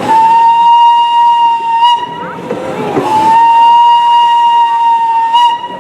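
Miniature train whistle blown twice in long, steady single-pitched blasts, the second a little longer than the first.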